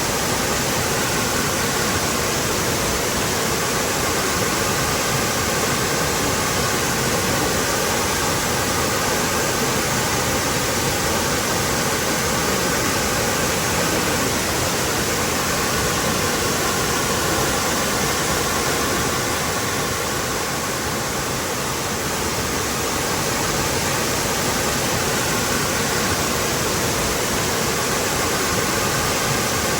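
Waterfall pouring steadily, a dense even rush of falling water.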